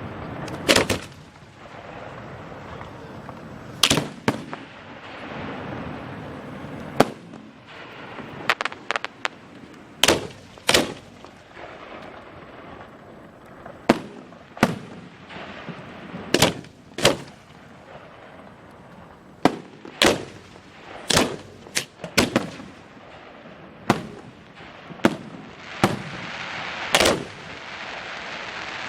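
Fireworks show: about twenty sharp booms from shells launching and bursting at irregular intervals, often in quick pairs, with a constant crackling hiss between them that swells near the end.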